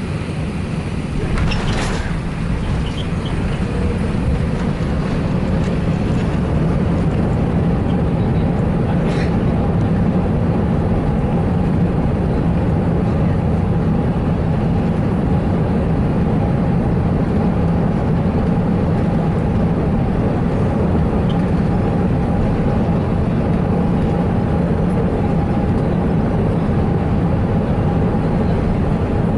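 Cabin noise inside an Airbus A380-861: its four engines and the rush of air, heard as a steady loud rumble with a low hum and a fainter steady tone. It swells slightly about two seconds in, then holds level.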